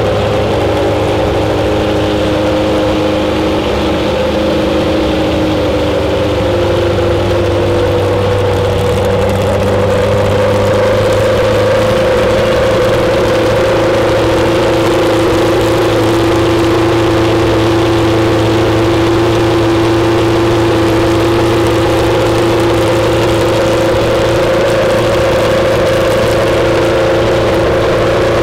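Jaguar XJR-14's 3.5-litre V8 race engine idling steadily, its pitch shifting slightly about ten seconds in.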